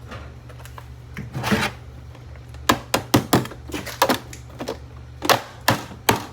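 Cheap plastic drip coffee maker being struck: a run of sharp cracking blows on its plastic housing, starting a few seconds in, several in quick succession, as it breaks apart easily.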